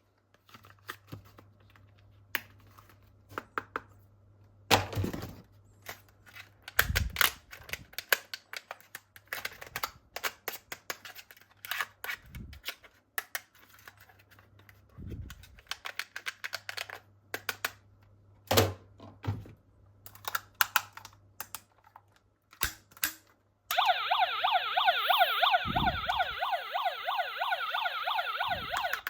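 Plastic toy parts being handled, with many small clicks and knocks. About five seconds before the end, a toy's electronic siren sound effect starts: a loud, fast warble that holds steady for about five seconds and then cuts off.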